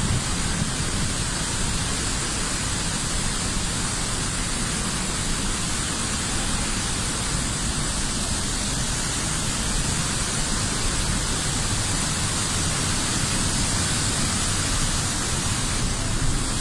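Pailón del Diablo waterfall, a large mass of falling water making a steady, even rush.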